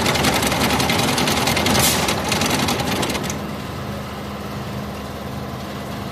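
MAN diesel truck engine running with a fast clatter, settling from higher revs to a quieter idle about three seconds in. A short hiss sounds about two seconds in.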